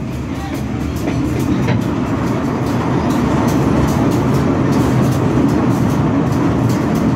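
Train running on the track, the rumble growing louder, with a rapid irregular clatter of wheels on the rails.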